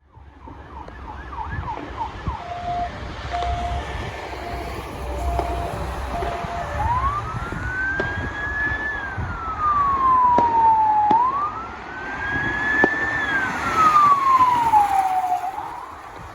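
Emergency vehicle siren cycling through its tones: a fast yelp, then a two-note tone, then a slow wail that rises and falls twice, over the low rumble of the vehicle, with a few sharp cracks.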